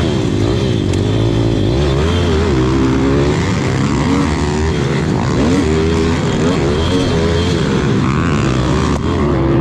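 Dirt bike engines racing, their pitch rising and falling repeatedly as the riders rev and shift.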